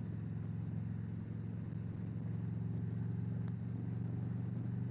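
Harley-Davidson Road Glide V-twin with aftermarket pipes running steadily while cruising, with wind and road noise. A single brief click about three and a half seconds in.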